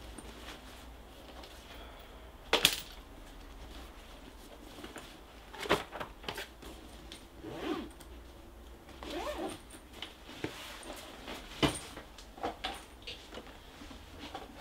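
Scattered small handling noises in a quiet room: soft rustling broken by three sharp knocks, about two and a half, six and twelve seconds in.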